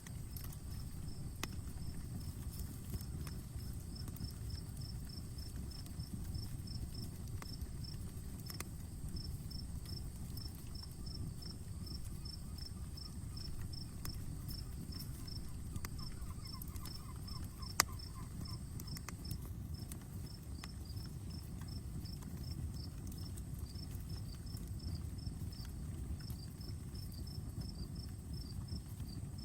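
Campfire crackling with scattered small pops and one sharp pop about 18 seconds in, over a steady low rumble. Crickets chirp throughout in an even, repeating pulse.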